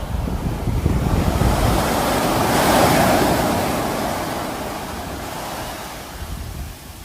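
Sea waves breaking on the shore: one wave swells and crashes about three seconds in, then washes out and fades. Wind rumbles on the microphone throughout.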